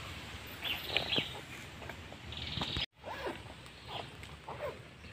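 Birds calling: a series of short calls that slide sharply down in pitch, several in a row. The sound cuts out for a moment about three seconds in.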